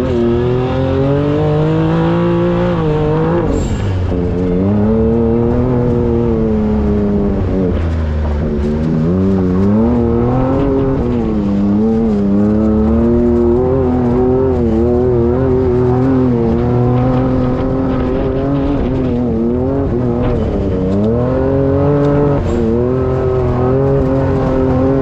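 Can-Am Maverick X3 side-by-side's turbocharged engine under way off-road, its note rising and falling every few seconds as the throttle is worked, with sharp drops when it lets off about 4, 9 and 21 seconds in.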